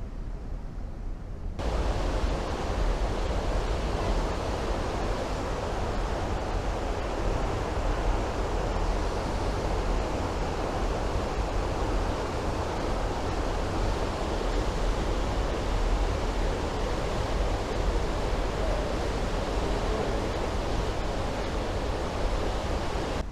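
Steady rushing noise of wind and sea passing a moving ship, with a heavy low rumble of wind on the microphone. It cuts in abruptly about a second and a half in, then holds even.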